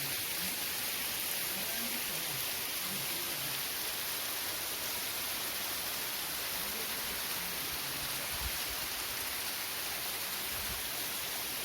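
Steady rush of a waterfall, falling water making an even, continuous hiss.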